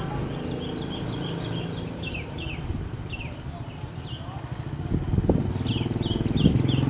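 An engine running steadily, with a bird giving runs of short, falling chirps over it, about two seconds in and again near the end.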